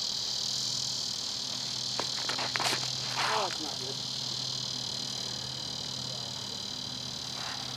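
Insects buzzing in a steady, dense high drone that starts abruptly, with a few sharp clicks and a brief falling sound about three seconds in.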